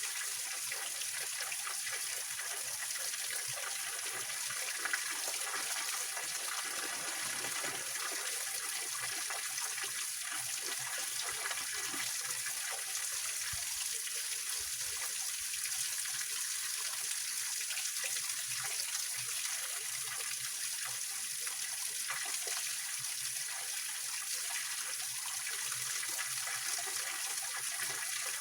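Small mountain stream spilling over rocks in a little waterfall: a steady, even rush of flowing water, bright and hissy rather than deep.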